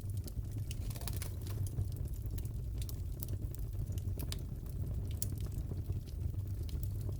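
Crackling wood fire in a fireplace: a steady low rumble with frequent irregular sharp pops and snaps.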